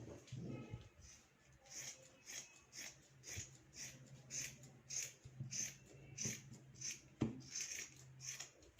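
Tailoring scissors cutting through stacked layers of fabric and lining, a steady snip about twice a second.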